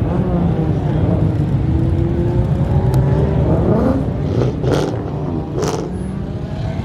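Car engines running, with one slowly revving up in pitch. Two short noisy bursts come near the end.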